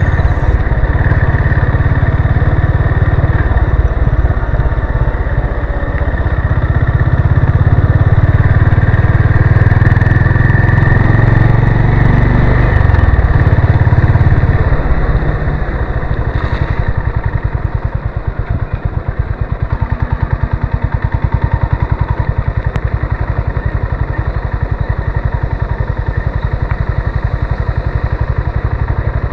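Honda CB350 RS's air-cooled single-cylinder engine running under way. It pulls harder for the first half, then eases off about halfway through to a lower, steady run in which the separate firing pulses can be heard.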